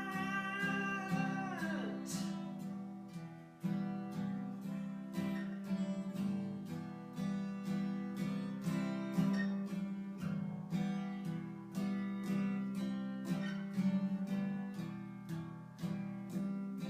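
Music: strummed acoustic guitar in an instrumental break of a song, with regular strokes about twice a second. It opens with the tail of a held sung note that falls away about two seconds in.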